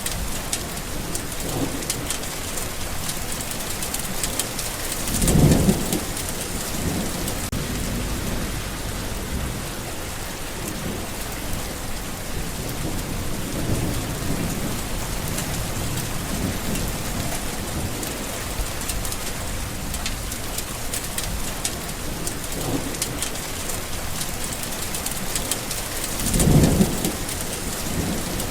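Steady heavy rain hissing, with thunder rumbling low in the background and two louder short thunder rolls, about five seconds in and again near the end.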